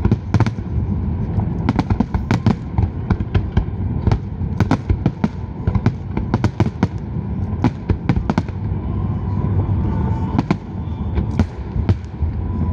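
Fireworks display: a rapid, irregular series of sharp bangs and crackles from bursting shells over a steady low rumble. The bangs come a little less often after about nine seconds.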